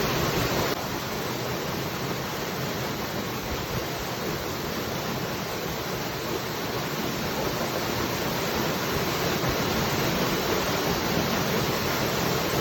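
Waterfall: a steady rush of falling water, with a slight drop in level just under a second in.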